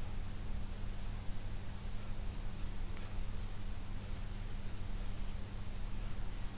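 Pencil scratching on paper in short, repeated strokes as a drawing is sketched, over a steady low hum.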